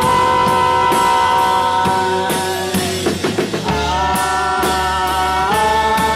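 Live rock band playing: long held notes over regular drum strokes, with a quick run of drum hits about three seconds in, after which the held notes shift.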